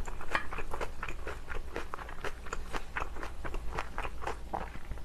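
Close-miked chewing of a mouthful of kimchi fried rice with sliced green chilies: wet, crackly mouth clicks and small crunches, several a second.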